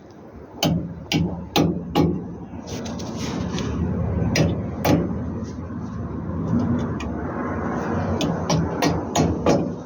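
Hammer blows during a truck brake-lining job: a few single strikes, then a quick run of about three blows a second near the end, over a steady low hum.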